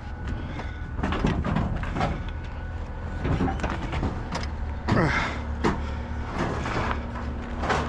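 Scraping, rubbing and knocking of metal as a stuck length of Romex cable is worked and pulled out of a scrap metal part, with a sharp knock near the end, over a steady low hum.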